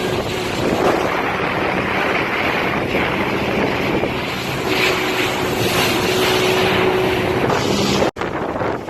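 Tour boat's engine running with a steady low hum under a rush of wind on the microphone. The sound drops out for an instant about eight seconds in.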